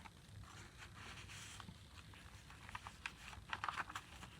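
Faint paper rustling and light clicks and taps as the tags and card pages of a handmade junk journal are handled, with the clicks clustering about three seconds in.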